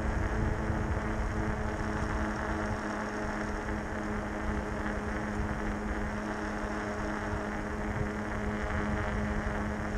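Bafang 1000 W e-bike motor on a fatbike running under power at speed, a steady hum of unchanging pitch over a low rushing noise.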